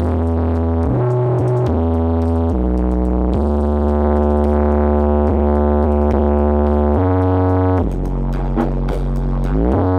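Electronic dance music played loud through a carnival sound system: heavy held bass notes that change every second or two under synth chords and a fast ticking hi-hat, with a rising sweep near the end.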